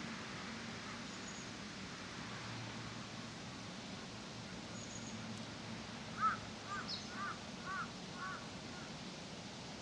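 A crow cawing five times in quick succession about six seconds in, the first caw the loudest, over a steady low background hum with a few faint, high chirps from small birds.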